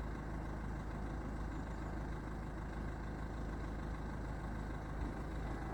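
Ford car's engine idling with a steady, even low rumble.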